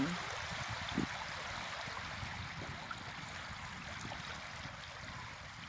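Steady rushing water at a bay shore, with a low rumble beneath it and a brief short sound about a second in.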